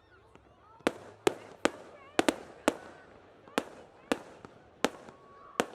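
Fireworks going off in a rapid, irregular series of about ten sharp bangs, each fading off briefly after it.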